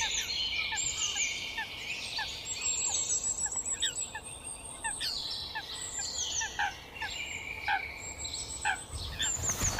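Birds calling in a natural ambience: a steady string of short falling chirps, about two a second, with high quick trills of falling notes over a faint steady hiss.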